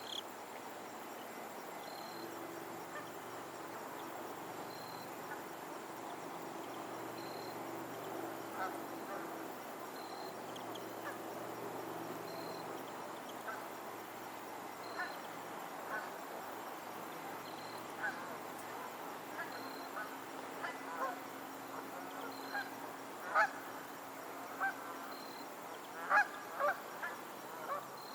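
Geese on a lake honking, scattered calls at first, then more frequent and louder in the second half. A faint high chirp repeats about every two and a half seconds over steady background noise.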